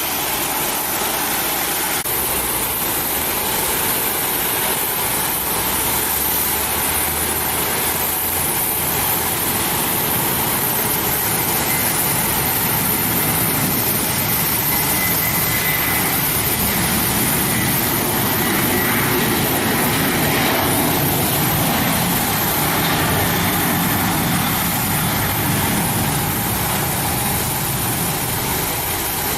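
Boeing 737 jet engines (CFM56-7B turbofans) running steadily on the ground: continuous engine noise with a steady high-pitched whine, swelling a little in the lower tones about halfway through.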